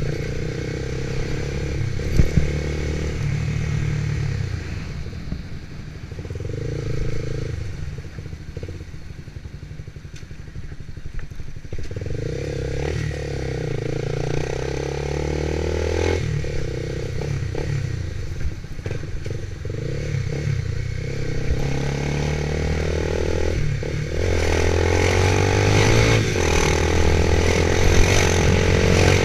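Motorcycle engine running while being ridden, its pitch rising and falling repeatedly with throttle and gear changes, and louder over the last few seconds.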